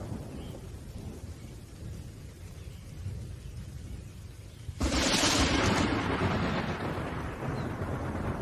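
Thunderstorm: low rumbling thunder, then about five seconds in a sudden sharp thunderclap that rolls on and slowly fades.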